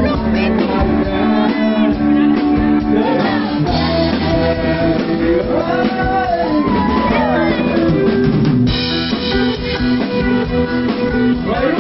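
Band music with a drum kit, guitar and a singer.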